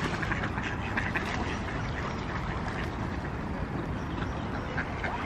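Ducks quacking now and then over a steady low rumbling noise.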